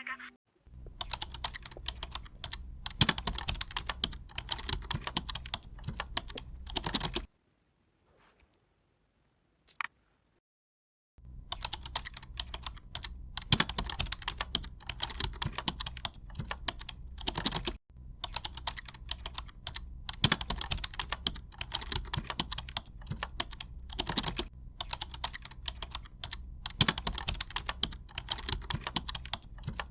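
Typing on a computer keyboard: a fast, continuous run of key clicks. The typing stops for about four seconds partway through, with one lone click in the pause, then resumes.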